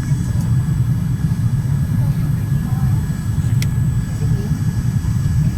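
Steady low rumble of engine and airflow noise inside the cabin of a Boeing 787-10 airliner on its descent, with a faint steady high whine above it. A single short click comes about three and a half seconds in.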